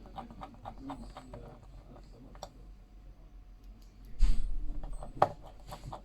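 Light clicks and taps of small objects being handled on a work surface, with a heavy bump about four seconds in and a single sharp click a second later.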